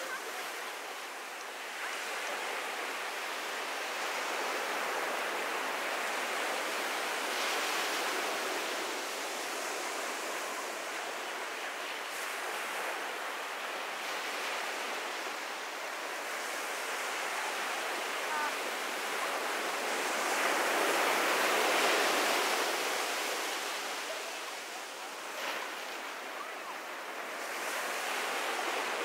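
Ocean waves breaking and washing on a beach, a steady surf hiss that swells and eases, loudest about three-quarters of the way through.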